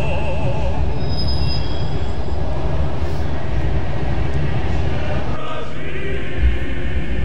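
Steady low rumble of a passenger train carriage running along the track, heard from inside the carriage.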